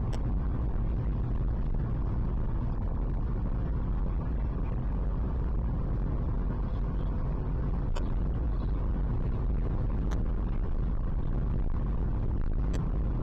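2001 Volkswagen Beetle TDI's 1.9-litre four-cylinder turbodiesel idling steadily with a low rumble, with a few faint clicks.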